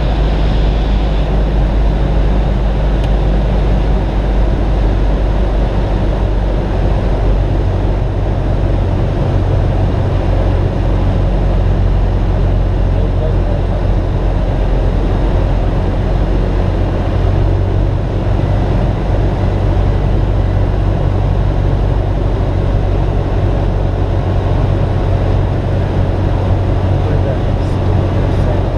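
Cessna 172S's four-cylinder Lycoming engine and propeller running steadily in cruise, a constant low drone with no change in power.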